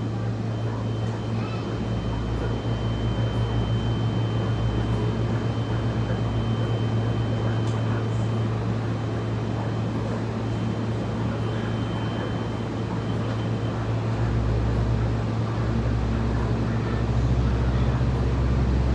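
A SMART diesel multiple-unit railcar running, heard from inside the car: a steady low diesel drone under wheel and rail rumble while the train passes through a tunnel. Near the end the engine note rises and grows louder.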